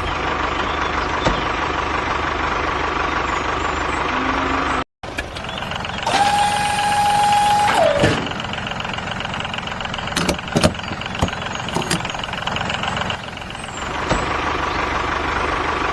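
Tractor engine running steadily, broken by a brief dropout about five seconds in. A held high tone follows for about two seconds and falls away at its end, then a few sharp clicks.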